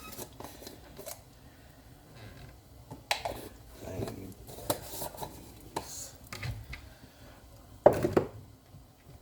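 Kitchen handling sounds: scattered clicks and knocks of containers and utensils while seasoning a pot, with one louder clatter about eight seconds in.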